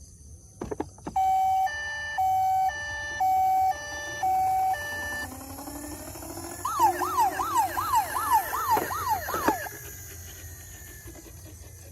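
Toy emergency vehicle's electronic siren. It first plays a two-tone hi-lo siren, switching between a low and a high note about four times. Then comes a fast rising-and-falling yelp wail for about three seconds, which fades out near the end.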